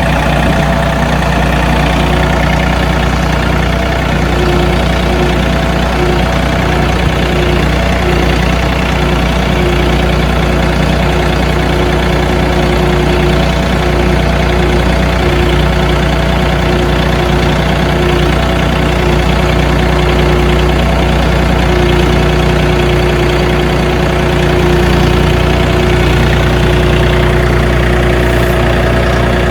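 John Deere tractor engine running steadily while the tractor drives along. A higher whine comes and goes over the engine note.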